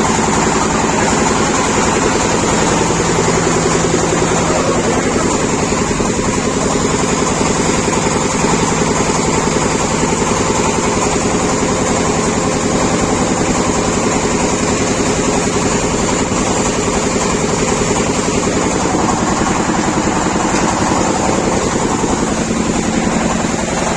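Pipe-bending machine's motor running steadily with a constant mechanical hum.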